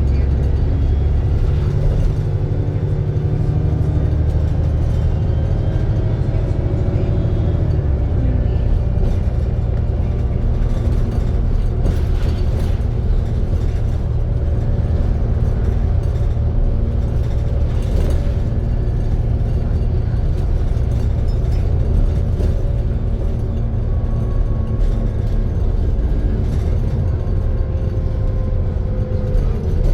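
ADL Trident II Enviro 400 double-decker bus's engine and driveline running under way, heard from on board, with steady whining tones over the low engine sound; the tones shift in pitch about eight seconds in and then drift slowly.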